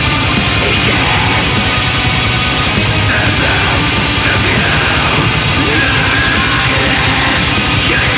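Black metal music: distorted electric guitars over very fast, relentless drumming, loud and unbroken.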